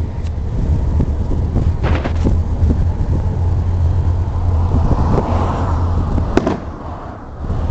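Car driving: a steady low rumble of engine and road noise heard from inside the cabin, with one sharp click about six seconds in and a brief dip in loudness near the end.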